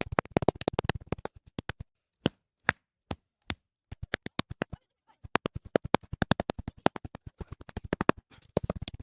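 Shovels patting and packing down loose dirt: a rapid run of sharp taps that thins to a few single taps about two to four seconds in, then speeds up again.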